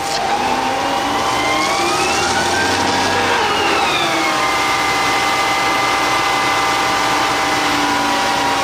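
Isuzu Giga fire truck's engine revving up over about three seconds, dropping back a little, then holding a steady raised speed, with a constant whine underneath.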